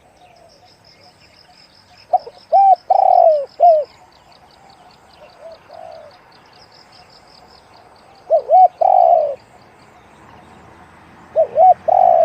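Spotted dove cooing: three phrases, each two short notes followed by a longer coo. A thin, rapid, high trill runs behind them and stops shortly after the second phrase.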